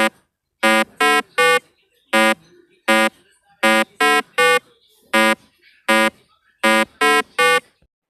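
Short, loud, buzzy horn beeps in a repeating rhythm: a quick run of three, then two single beeps, then three again, twice over.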